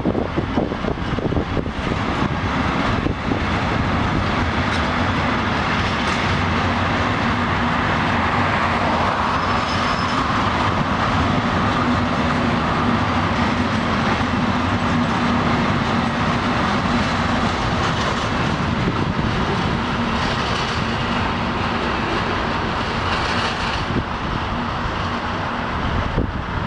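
Intermodal freight train of container and trailer wagons rolling past steadily, a continuous rumble of wheels on the rails.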